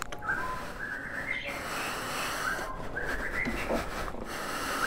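A bird chirping: short rising whistles, repeated every second or so, over a quiet background.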